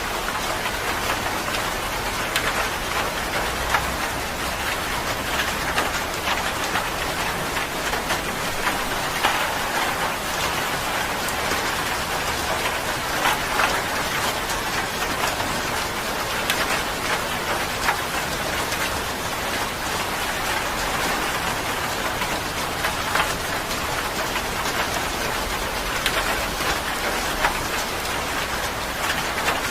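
Steady rain falling on a surface, an even hiss with many small close drop ticks.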